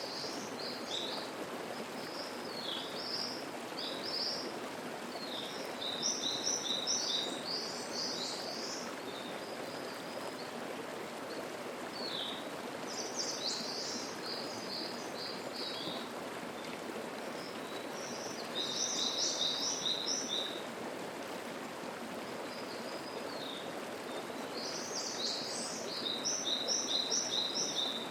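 Mountain stream babbling steadily, with songbirds singing over it in short, repeated phrases of quick high notes, a few times.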